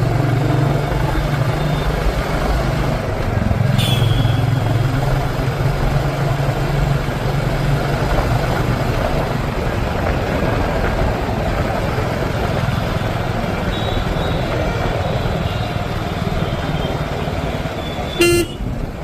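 Royal Enfield motorcycle on the move: steady engine hum under a constant rush of wind and road noise. A short, loud, sharp sound comes near the end.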